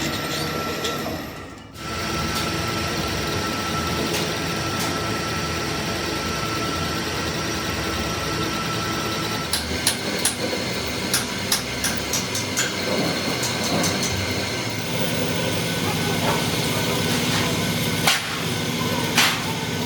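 Workshop machinery running steadily with a thin high tone through the first half. About ten seconds in comes a run of sharp metallic clicks and knocks, and two louder knocks follow near the end.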